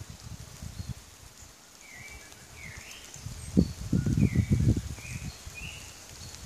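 Woodland birds calling, a handful of short whistled notes, some sliding up or down in pitch. Under them are irregular low rumbling buffets on the microphone, loudest in the middle.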